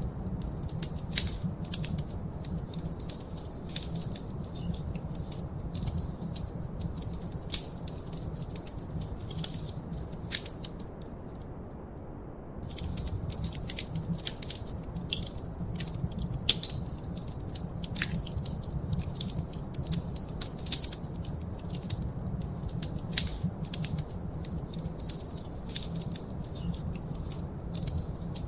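Wood fire crackling in a fireplace: frequent sharp pops and snaps over a low steady rumble, with a brief lull in the crackling near the middle.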